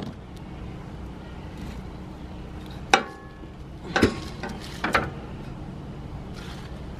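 Three sharp knocks about a second apart, the first with a short ringing tail, as wooden planks and levelling blocks are knocked together and set down.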